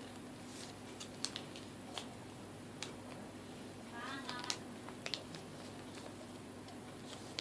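A few scattered sharp clicks and snips against a steady low hum, with a brief, wavering pitched sound about four seconds in.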